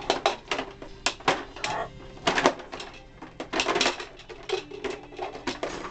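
Toy trucks clattering and knocking together, an irregular run of sharp knocks and rattles.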